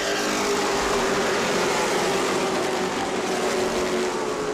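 A field of short-track race trucks running at racing speed, a steady mix of several engine tones and track noise.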